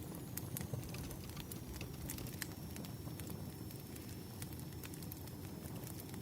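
Wood fire burning with a steady low rumble, and irregular sharp crackles and pops from the burning logs.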